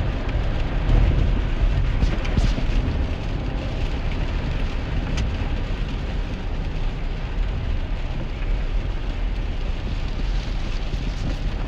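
Heavy rain falling on a 2001 GMC Sierra pickup, heard from inside the cab while it drives, over a steady low rumble of road and engine.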